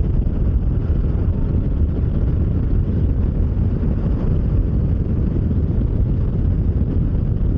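Wind rushing over the microphone while a Bajaj Dominar 400 motorcycle is ridden at highway speed, with engine and road noise underneath as one steady low rumble.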